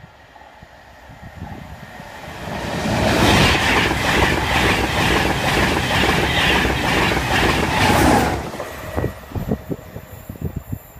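Electric express passenger train passing at speed: a rushing sound that builds over a couple of seconds, holds loud for about five seconds with a rhythmic clatter of wheels over the rails, then drops away quickly as the last carriage goes by.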